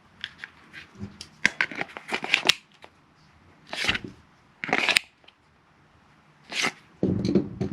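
Glock pistol being handled after reassembly: a run of small clicks, then a quick cluster of sharper snaps, then three louder short clacks a second or so apart.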